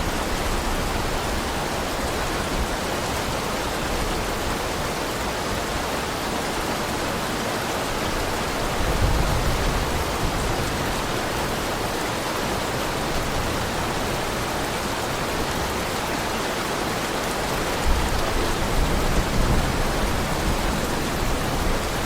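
Heavy rain falling steadily as an even hiss, with brief low rumbles rising above it about nine seconds in and again near eighteen seconds.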